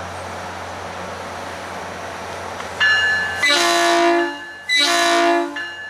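SunRail commuter train sounding two long blasts on its multi-note horn, with a bell ringing steadily under and after them. A low diesel engine rumble comes before the horn as the train approaches.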